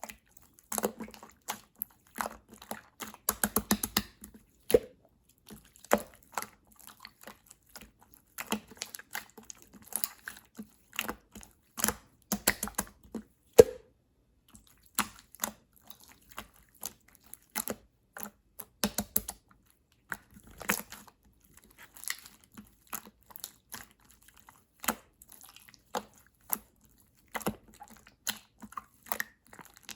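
Clear slime being squeezed and poked by hand, giving irregular sticky clicks and small pops, with a quick run of crackling clicks a few seconds in.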